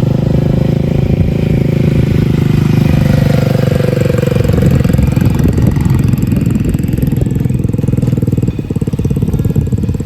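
A mini bike's small engine running close by, its pitch rising and falling with the throttle and turning rougher and more uneven about halfway through.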